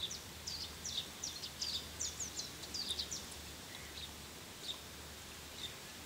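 Small birds chirping with short high notes: a quick run of chirps in the first three seconds, then a few scattered single notes.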